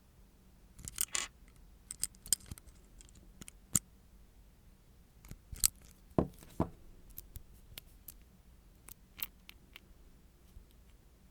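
Small nail-art tools being handled: scattered light clicks and taps, with a short scrape about a second in and two fuller knocks a little past the middle.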